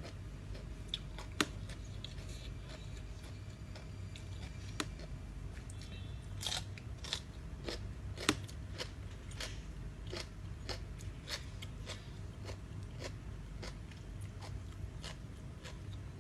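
Close-up eating sounds: irregular crunchy bites and chewing of a spicy Thai rice-noodle salad with crispy squid, over a steady low hum.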